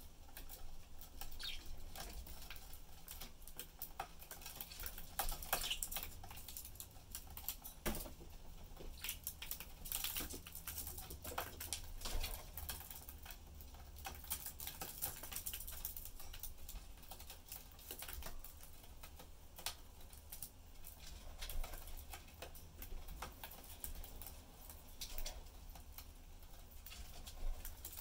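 Budgies pecking and moving about their cage: an irregular patter of small clicks and taps from beaks and feet on seed, perches and wire.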